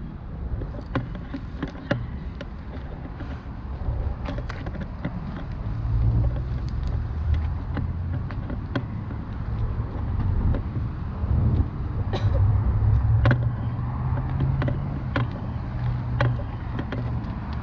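A vehicle's engine running with a low rumble that grows louder about six seconds in, under frequent irregular clicks and knocks like rattles.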